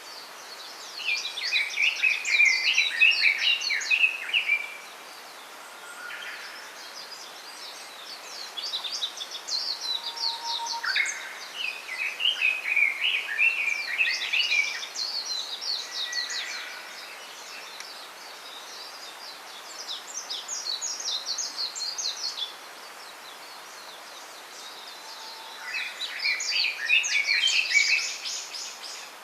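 A small songbird singing long phrases of rapid, high twittering notes, four bursts of song a few seconds each with pauses between, over a steady faint hiss.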